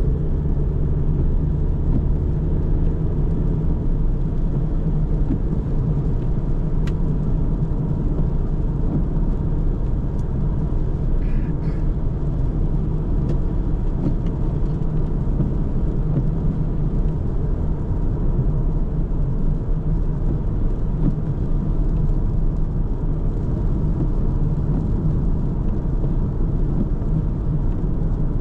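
A car driving at a steady pace: an even, low rumble of tyres on the road and the engine, with no change in speed.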